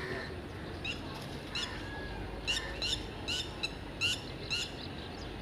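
Birds calling: a string of about eight short, sharp chirps, a little under a second apart, with a faint arched whistle between them about two seconds in.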